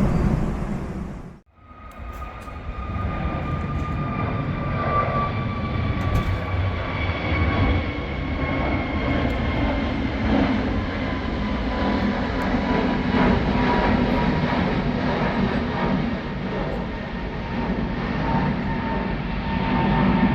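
Airbus A321XLR jet airliner's engines running loud and steady as it passes, with a fan whine slowly falling in pitch; the sound cuts in after a brief gap about a second and a half in.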